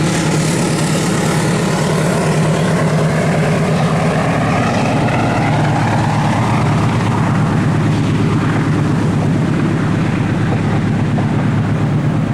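Diesel locomotive engine running hard as the train climbs an uphill grade: a loud, steady drone with a deep hum and higher tones that slowly shift in pitch.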